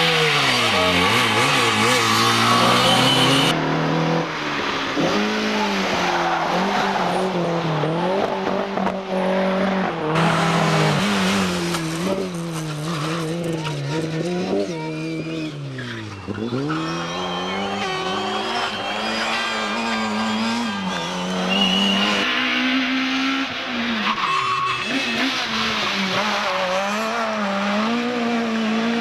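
Turbocharged four-cylinder World Rally Car engines revving hard through gear changes, dropping in pitch on the brakes and climbing again under acceleration, with tyre squeal as the cars slide through corners. The sound changes abruptly a few times as the footage cuts from one car to another.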